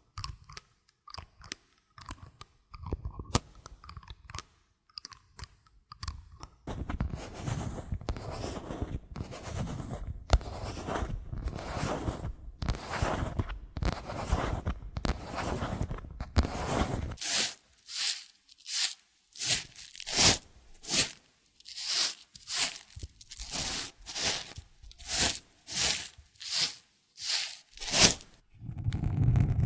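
Close-miked ASMR trigger sounds. First scattered light taps and clicks, then from about a quarter of the way in a stretch of dense crunching and crackling, then a run of regular swishing strokes about one and a half times a second.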